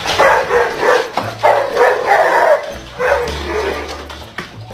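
A dog barking several times in quick succession over rap music with a deep, steady bass.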